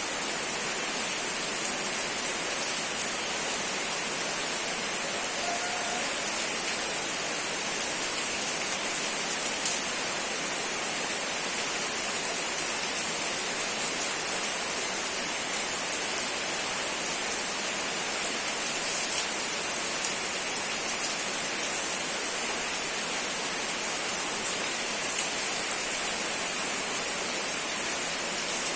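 Steady rain falling, an even hiss with a few sharper drop ticks standing out now and then.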